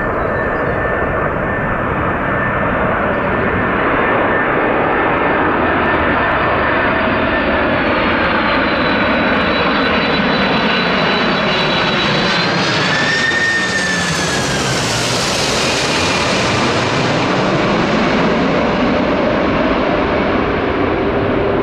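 Jet airliner flying low past the microphone: a loud, steady engine rush with a high fan whine, rising slightly and then falling in pitch as it passes about two-thirds of the way through.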